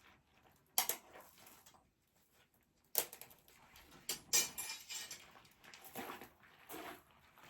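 Dead branches snapping and knocking as they are handled, in irregular sharp cracks: one about a second in, another at three seconds, then a busier run of snaps and clatter through the second half.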